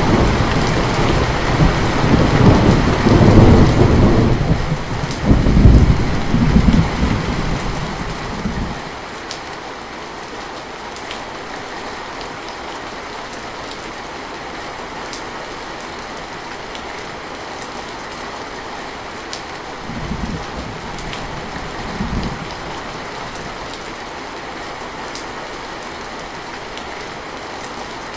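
Heavy rain falling steadily, with a long roll of thunder rumbling through the first eight seconds or so and dying away, then two short low rumbles about twenty and twenty-two seconds in.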